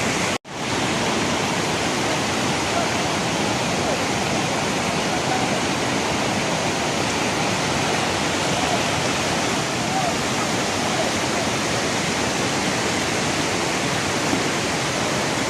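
Steady, loud rush of flowing floodwater, even throughout. It cuts out completely for a split second about half a second in.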